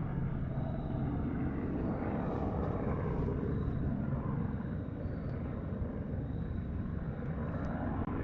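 Helicopter flying steadily, heard as a continuous low drone with no breaks.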